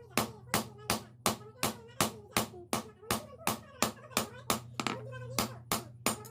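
Hand hammer striking steel on an anvil in a steady rhythm, about three ringing blows a second, as a blade is forged. A steady low hum runs underneath.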